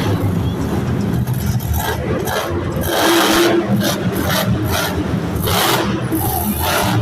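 Monster truck engine revving hard in repeated surges of about a second each over a steady low running note.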